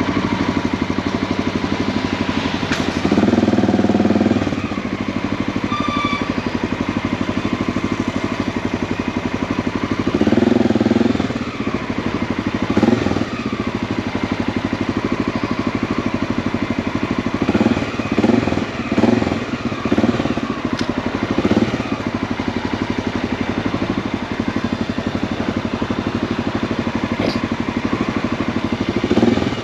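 Motorcycle engine running steadily, with louder stretches about three seconds in and again about ten seconds in, and some rising and falling in its last part.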